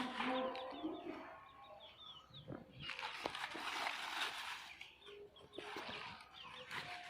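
Small birds chirping in short high notes, with low calls near the start and a stretch of rustling noise about three seconds in, as birds and hens forage for seeds.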